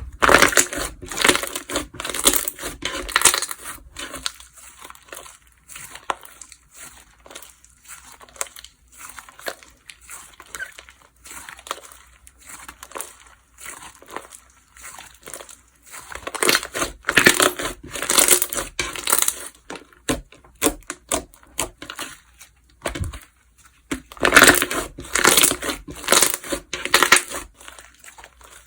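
Slime being squished and stretched by hand, making dense crackling and popping. It comes in three louder spells, at the start, about two-thirds of the way through and near the end, with quieter crackles between.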